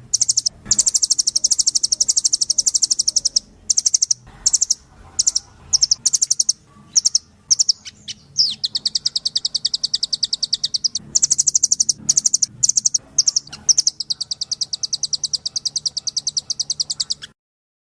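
Blue nuthatch giving rapid, high-pitched trills, each a fast string of repeated notes, in bouts broken by short pauses. The trilling stops suddenly shortly before the end.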